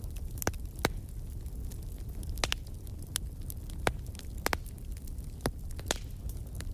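Bonfire burning: irregular sharp crackles and pops, about a dozen, over a steady low rumble.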